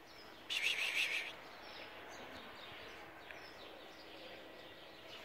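Small birds chirping repeatedly in short, quick notes, with one louder harsh, raspy burst lasting under a second about half a second in.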